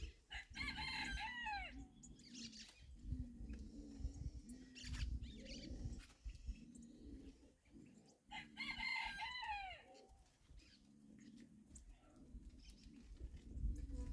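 A rooster crowing twice, each crow about a second and a half long, the second coming about eight seconds after the first.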